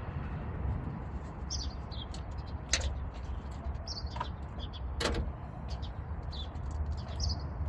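A small bird chirping again and again over a steady low hum, with two sharp clicks, one about three seconds in and one about five seconds in.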